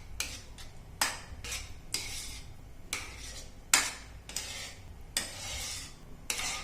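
Spoon stirring and scraping through curd and spice masala in a pan, in irregular strokes about once a second, with a faint sizzle underneath.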